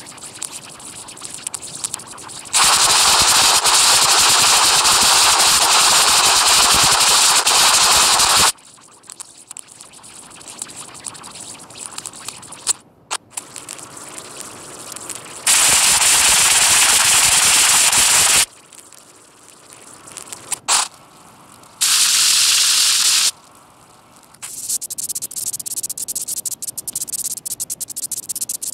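Harsh static-like noise that switches on and off abruptly in three loud blocks, the first lasting about six seconds, with quieter crackling between them and a steady crackle near the end.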